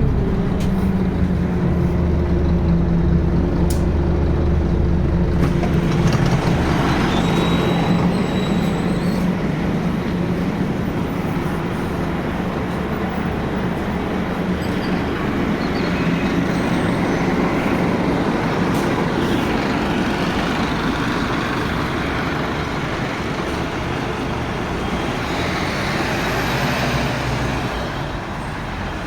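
Scania N280UB city bus running. A steady engine hum holds for the first few seconds, then gives way to a broad rushing road noise that eases slightly near the end.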